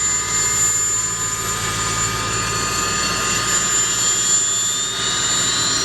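Boeing CH-147F Chinook helicopter's twin turboshaft engines running with steady high-pitched whines over a fast low rotor throb, as one whine climbs steadily in pitch from about two seconds in while the engines spool up.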